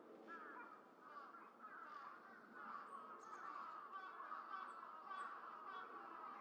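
A flock of birds calling at once in a dense, unbroken chatter, with a few thin high peeps from a small bird now and then.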